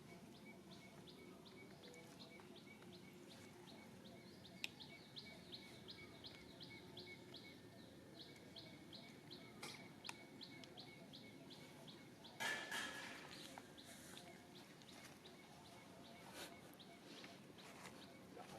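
Faint, regular high chirping, about three chirps a second, which stops about twelve seconds in. A short, louder rustling noise comes at the same moment.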